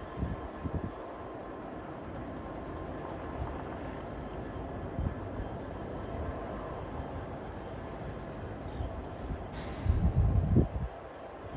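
Diesel locomotive engine running steadily, a low rumble with a constant engine hum, with wind buffeting the microphone near the end.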